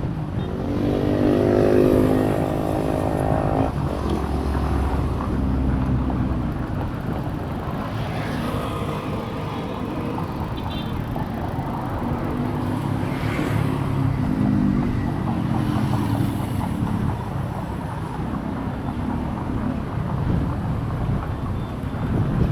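Road traffic passing, with engines rising and fading, mixed with wind rumbling on the microphone.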